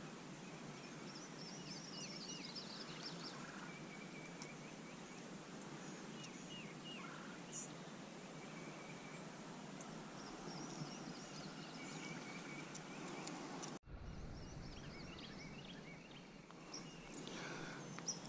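Birds chirping and calling over a faint steady outdoor background. About fourteen seconds in, the background cuts off abruptly and returns with a low rumble.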